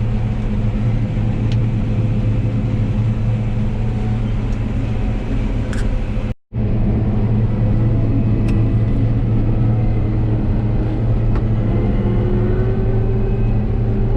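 John Deere 9760 combine running steadily while harvesting, heard from inside the cab as a loud, even machine drone with a low hum. The sound cuts out for a split second about halfway through, then the same drone resumes.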